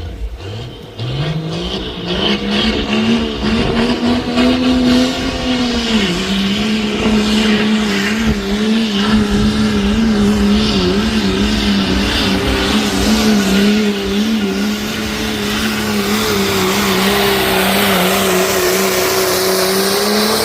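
1997 Dodge 3500 pickup's engine pulling hard under full load in a truck pull. Its revs climb over the first few seconds, drop sharply about six seconds in, then hold high and steady until it lets off at the end.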